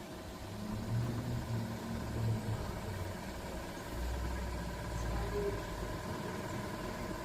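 Kia Soul EV's electric air-conditioning compressor running with a loud, abnormal internal noise, a steady hum with several tones. The noise swells about half a second in and shifts to a lower drone about four seconds in. It is a fault sound from inside the compressor, even though the system is still cooling well.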